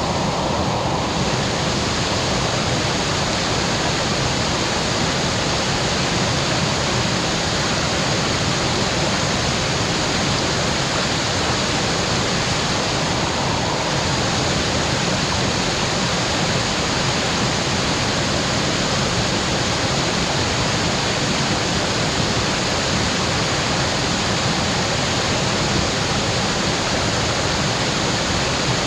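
A small slide-type waterfall, water sheeting down a rock slab, rushing in a steady, even hiss.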